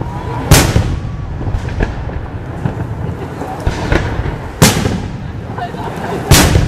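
Aerial firework shells bursting overhead: three loud, sharp bangs, each with a rolling echo, about half a second in, past the middle and near the end, with quieter pops between them.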